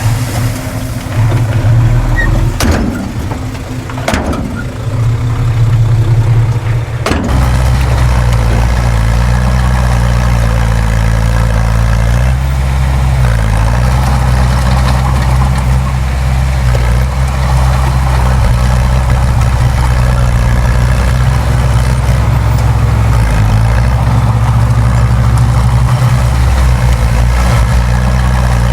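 Heavy diesel engine of earthmoving machinery running steadily, with a few sharp knocks in the first seven seconds; after about seven seconds the engine settles into a deeper, steady drone.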